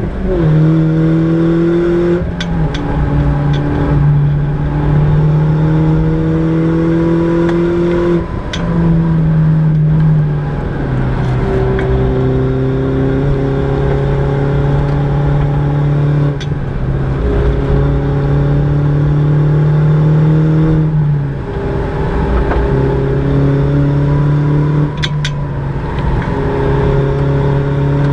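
A Mini John Cooper Works R56's turbocharged 1.6-litre four-cylinder, fitted with an aftermarket downpipe and exhaust, heard from inside the cabin driven hard on track. The engine note climbs slowly under load and dips briefly at each lift or gear change, about six times. A few short sharp cracks come a few seconds in and again near the end.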